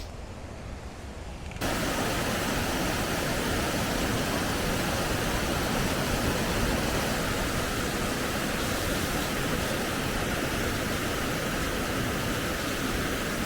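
Steady rushing of a waterfall, a full, even roar of falling water that cuts in suddenly about a second and a half in and holds at one level.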